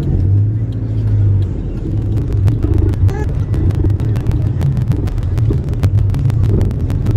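Car engine running as the car creeps along at low speed, a steady low rumble heard from inside the cabin, with a rapid scatter of sharp clicks from about two seconds in.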